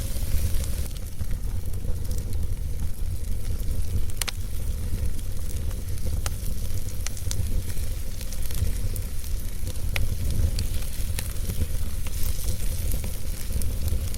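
Wood fire burning in a fireplace: a steady low rumble of flames with sharp crackles and pops of burning logs scattered through, about one every second or two.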